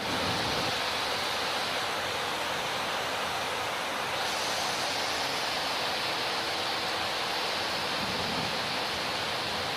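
Heavy rainstorm: a steady, dense hiss of a downpour and running water.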